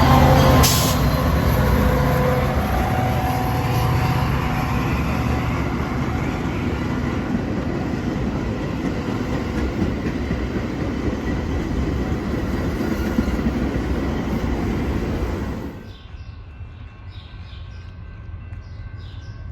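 Train passing on the tracks: a steady rumble of wheels and cars, loudest at the start and slowly easing, which cuts off suddenly about sixteen seconds in.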